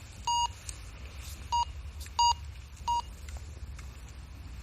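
Metal detector giving four short, identical beeps at uneven intervals over a buried metal target. Under the beeps is a steady low rumble.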